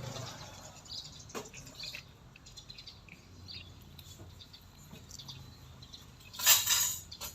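Small birds chirping now and then in the background, with a couple of sharp clicks early on and a loud, short burst of noise near the end.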